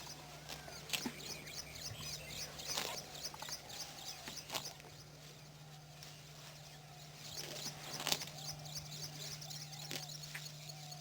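Wild birds calling outdoors, with two runs of rapid, evenly repeated high chirps and some scattered single notes over a steady low hum.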